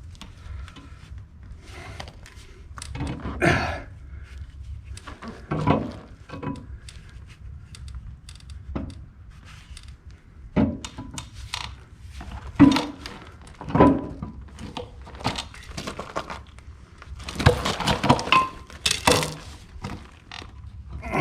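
Irregular metal clanks, thunks and scraping as a heavy flywheel is worked onto an engine's flywheel adapter, some knocks leaving a short metallic ring, with a longer stretch of clatter near the end.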